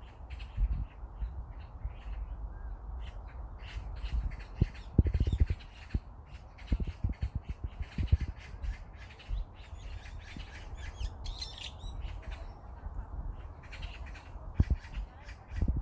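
Birds calling repeatedly outdoors, a series of short calls with one louder call a little past the middle, over a low uneven rumble.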